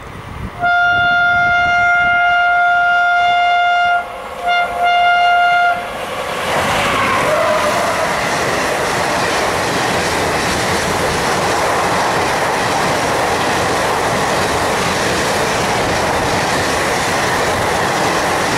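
Locomotive horn sounded in a long blast, a brief break and two short blasts, then the train passes close by, its wheels clattering over the rail joints in a steady loud rush.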